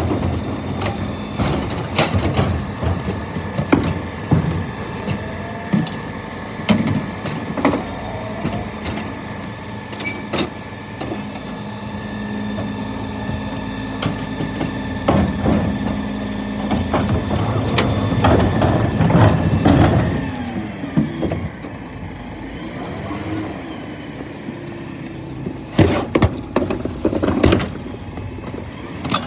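Scania P320 refuse truck running with its hydraulics working, a steady hum and whine, under repeated knocks and bangs of bins being handled by its Terberg bin lifters. The clatter is heaviest in the second half and again near the end.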